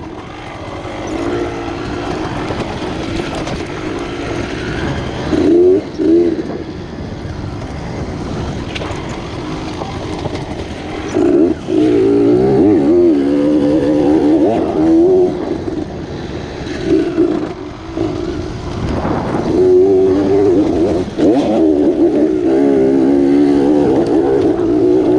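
Dirt bike engine being ridden on a rough trail, the throttle opened and rolled off again and again so its pitch keeps rising and falling, with louder bursts of throttle in between easier stretches.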